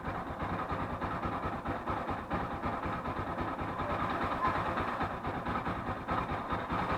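Motorcycle engine idling steadily without revving, running with diesel in its crankcase as an engine flush.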